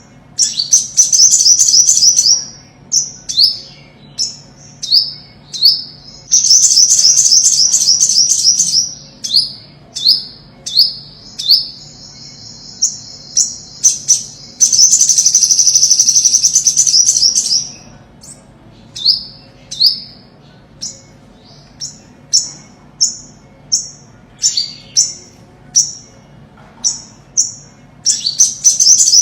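Olive-backed sunbird singing: a series of short, high chirps that slide downward, broken by fast, buzzy trills, the longest lasting about five seconds a little past the middle.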